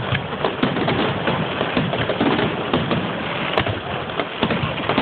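Fireworks display: a rapid, unbroken string of bangs and crackling from many shells bursting at once.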